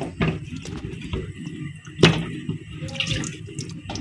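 Water being poured out of a container and splashing, with a few sharp knocks along the way.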